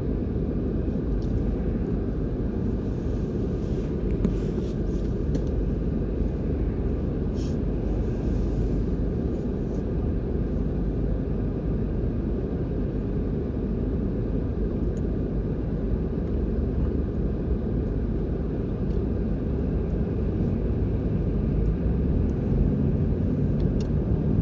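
Steady low rumble of motor vehicle traffic. Near the end an engine note rises and grows louder.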